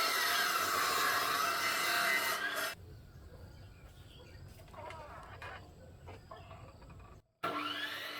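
Power saw cutting wood, its motor pitch sagging and rising under load for nearly three seconds before stopping. Then quieter scattered knocks of wood being handled, and near the end another cut starts with the motor pitch rising.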